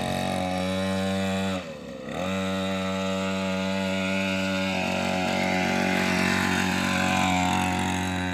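50cc mini motocross bike engine running at a steady pitch. About two seconds in it briefly drops and then picks up again, as the throttle is let off and reopened.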